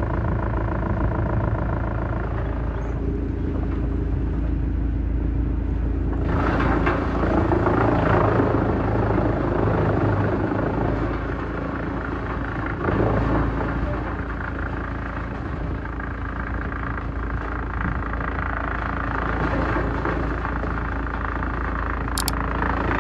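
Heavy-duty wood shredder running with a steady engine drone. Bursts of grinding and crunching come as wood is chewed through: the first about six seconds in, another sharply starting about halfway, and more near the end.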